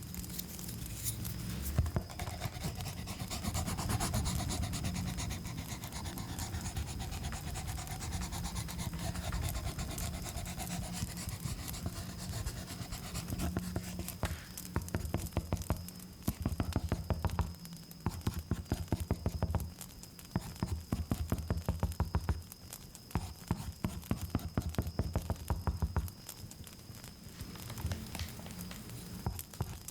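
Close-miked rubbing and scratching in many quick small strokes, over a steady high-pitched chirr of crickets.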